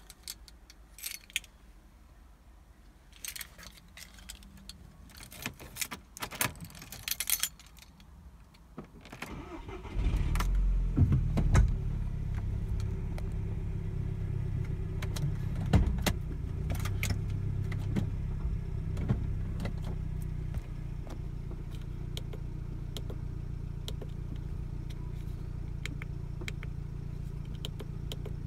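Car keys jangling and clicking as the key is handled and turned in the ignition of an Audi A3 8P, then the engine cranks and starts about ten seconds in and settles into a steady idle. The idle steps down a little about twenty seconds in.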